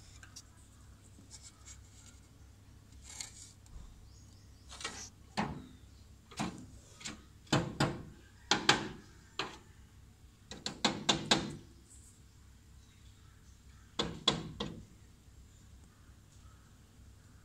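A woodpecker pecking at a mirror: irregular sharp knocks, some single and some in quick runs of three or four.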